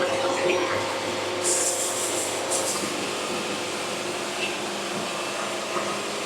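Production band sawmill running steadily with a continuous machine hum, with a brief high hiss about one and a half seconds in.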